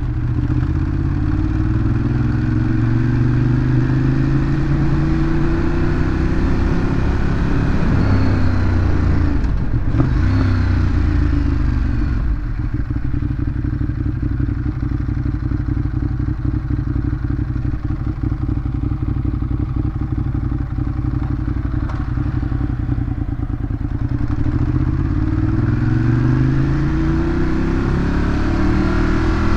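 Ducati Monster 821's 821 cc L-twin engine through its stock exhaust, pulling up through the revs for the first several seconds, dropping off about ten seconds in, running low and steady for a stretch, then climbing in revs again near the end.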